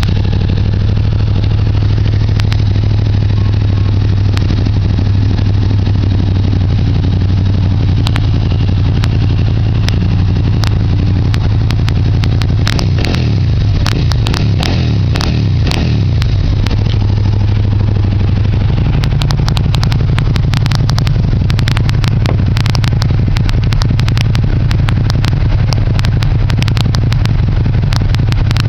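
2009 Suzuki Gladius V-twin running through a carbon fiber Two Brothers exhaust, idling steadily with a few throttle blips around the middle. Sharp crackling from the exhaust comes and goes throughout, heaviest in the second half, which the owner cannot explain.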